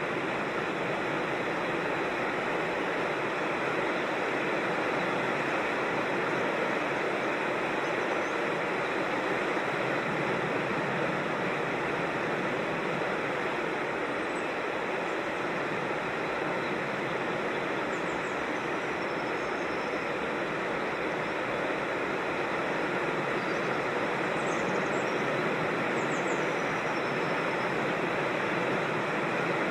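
Creek water rushing over rocks in a steady, unbroken rush. A few faint high bird chirps come through it in the second half.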